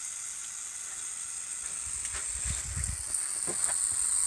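Water spraying with a steady high hiss from a break in the freeze-split copper tubing of a disconnected hot water heater, growing louder near the end. A few soft low bumps come in the middle.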